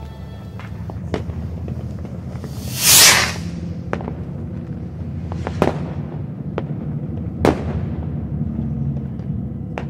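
A few sharp cracks and pops over a steady low rumble, the loudest a half-second burst of noise about three seconds in.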